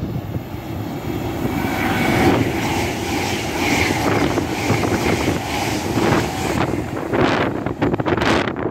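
An LNER Azuma high-speed train runs through the station without stopping. Its wheels clatter rhythmically under a rush of air and a faint steady whine, and the sound swells as it arrives. Near the end, gusts from its wake buffet the microphone.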